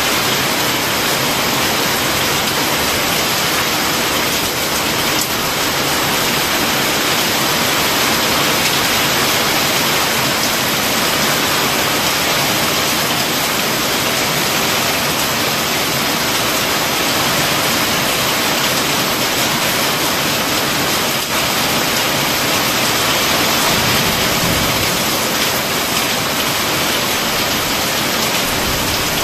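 Torrential rain pouring steadily onto a tile-profile sheet roof and foliage, a dense, even hiss with no thunder.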